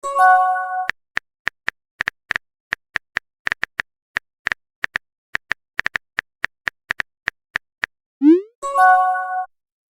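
Sound effects of a phone messaging chat: irregular keyboard-tap clicks, a few a second, as a message is typed. A short chime sounds at the start, and a rising blip followed by the same chime comes about eight seconds in, the app's message-sent or message-received notification.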